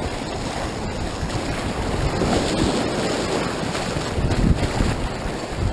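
Whitewater river rushing in a steady roar of water, with wind buffeting the microphone in low gusts.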